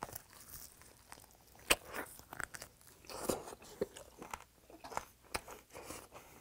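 Close-up chewing and biting of a raw butterfish sandwich layered with romaine lettuce, onion and chili: wet, irregular crunching with a few sharper, louder crunches.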